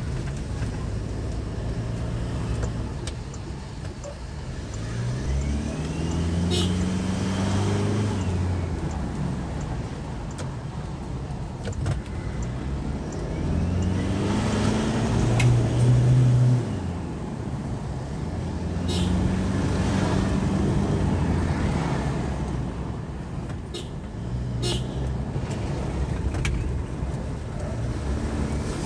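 Stock turbocharger of a 2020 Toyota Hilux turbodiesel whistling as it spools up under acceleration, the whistle rising and falling with the revs in the 1750–4000 rpm range. The engine note climbs in pitch four or five times as the truck pulls through the gears, with a few sharp clicks in between.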